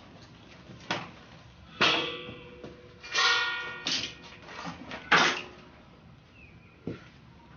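Pieces of steel being handled and knocked together: about six separate clanks, some ringing on briefly, the loudest about five seconds in.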